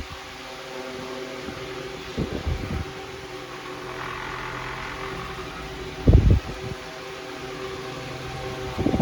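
Homestar 10-inch high velocity stand fan running, a steady motor hum and rush of air. Three low thumps, about two seconds in, six seconds in (the loudest) and at the very end, sound like its airflow buffeting the microphone.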